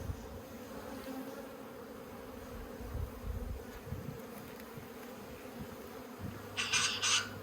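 Steady buzzing hum of many honeybees from an open top bar hive colony. About six and a half seconds in there are a few short, scratchy rustling sounds.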